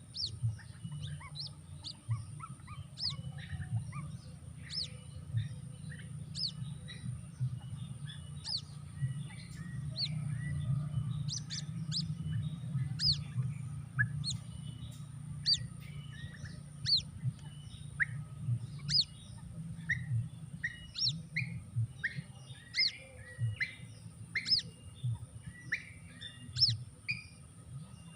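Birds chirping: a steady run of short, high-pitched peeps, each falling in pitch, about one or two a second, over a low steady hum.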